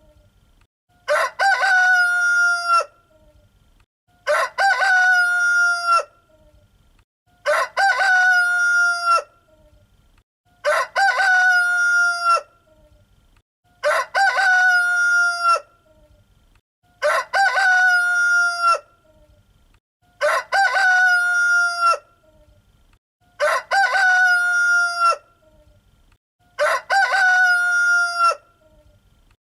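A rooster crowing cock-a-doodle-doo, nine times, each crow alike and evenly spaced about three seconds apart.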